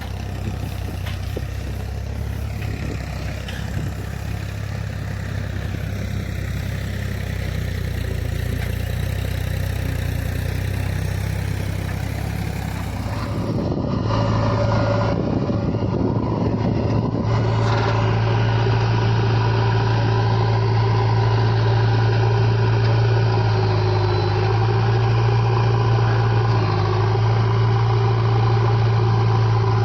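Heavy diesel engine running steadily at a low, even pitch. About 14 s in the sound changes abruptly and becomes louder, then runs on steadily.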